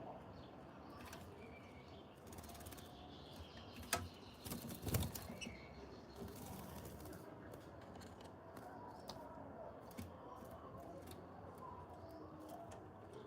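Birds flapping their wings, with a loud burst of fluttering and knocks about four to five seconds in, scattered lighter clicks, and a few faint chirps.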